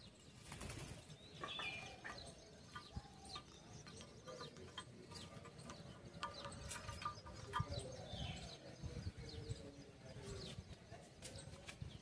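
Faint bird sounds: scattered clicks and scuffles with wing flapping, and a few short chirps.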